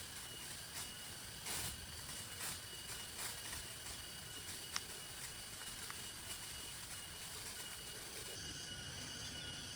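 Steady rain hiss with irregular heavier drops hitting now and then, and one sharp tick about five seconds in. A thin, steady high tone runs underneath.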